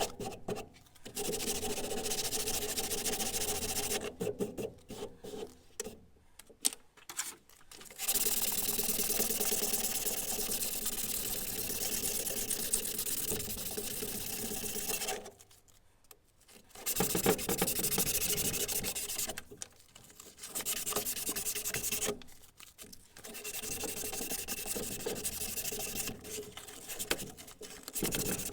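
Abrasive work on metal: filing or sanding, with a steady rasping rub that runs in stretches of several seconds and stops briefly between them.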